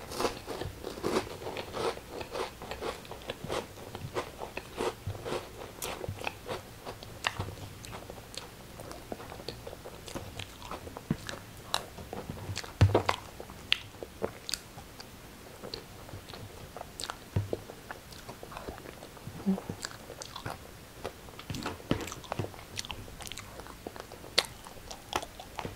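Close-up eating sounds: a person biting and chewing crunchy food, with many quick crisp crunches that come thick in the first few seconds, thin out in the middle, and include one louder crunch about halfway through.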